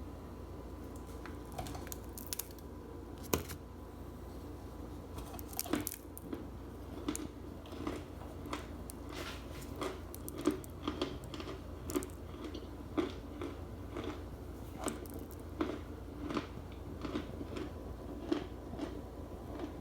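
Crunchy starch being bitten and chewed close to the microphone. A few scattered crunches come first, then steady chewing at about two crunches a second.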